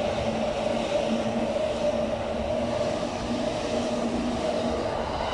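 Train running on the tracks: a steady rumble with a held mid-pitched tone and a fainter lower hum.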